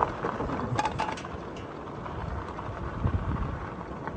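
Wind buffeting the microphone and rumbling road noise while riding an e-bike, with a few short clicks about a second in.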